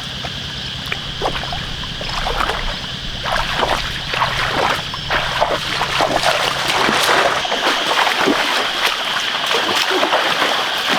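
Repeated splashing and sloshing in shallow muddy water, sparse at first and growing busier after about three seconds, over a steady high-pitched drone.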